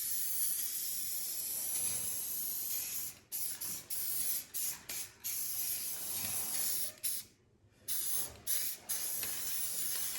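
Aerosol can of red spray paint hissing in a series of sprays, broken by short pauses where the nozzle is released and one longer stop about seven seconds in.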